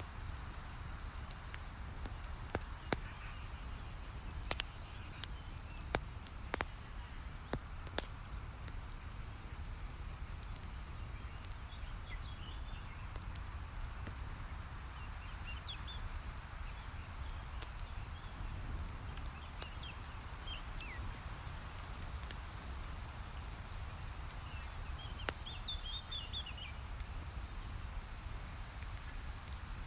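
Campfire crackling, with a run of sharp pops in the first several seconds over a steady low rumble. Faint short bird chirps come and go through the middle and near the end.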